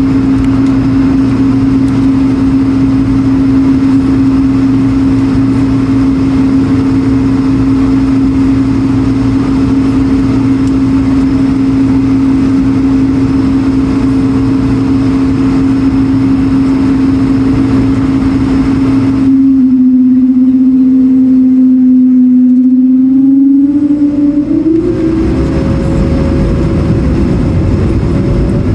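Airbus A220-100 cabin noise: a steady jet-engine hum with a clear tone over a low rumble. Near the end the pitch rises as the engines spool up.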